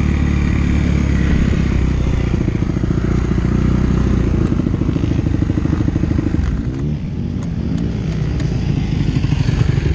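Suzuki RM-Z250 dirt bike's single-cylinder four-stroke engine running hard on a sand motocross track, held steady under throttle, easing about four seconds in, dipping briefly near seven seconds and then revving back up.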